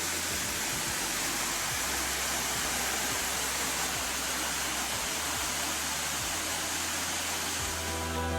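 Waterfall's rushing water: a steady, even roar of falling water.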